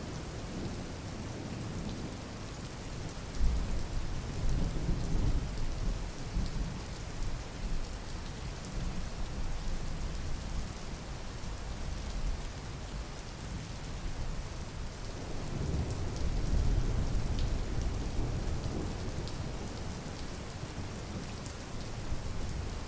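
Steady rain, with two long low rolls of thunder: one swelling in about three seconds in, and another about two-thirds of the way through.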